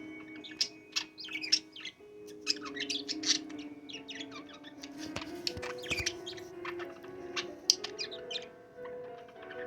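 Budgerigars chirping and chattering, a steady stream of quick, overlapping high calls.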